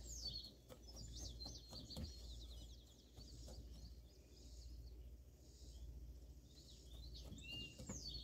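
Faint chirping of small birds in quick high notes, busiest in the first couple of seconds and again near the end, with a few faint clicks from a utensil working butter into crumble topping in a bowl.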